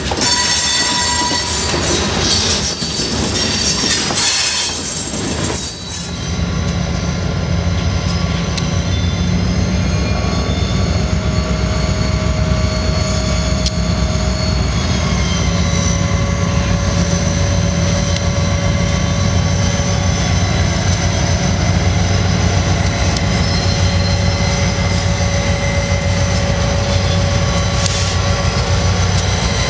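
Covered hopper cars rolling past with high wheel squeal and clatter. About six seconds in, this cuts to the steady drone and whine of a CSX SD40-2 and SD70M, EMD two-stroke diesel locomotives, running with the freight train.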